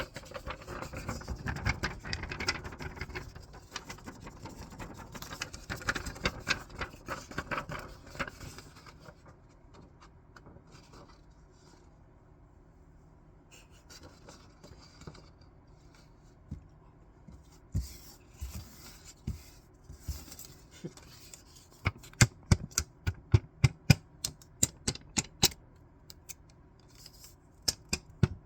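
Scissors cutting paper, with crisp paper rustling for the first third. Then comes a quieter stretch with a few scattered clicks. Near the end there is a quick, regular run of sharp snips, about three a second.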